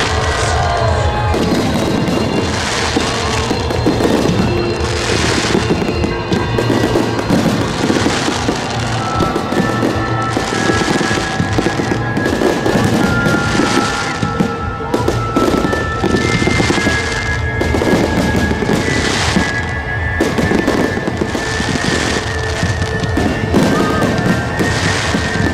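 Fireworks display: many shells bursting in quick, overlapping succession, a near-continuous mix of bangs and crackling.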